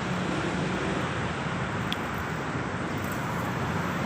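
Steady road traffic noise: a continuous wash of passing vehicles.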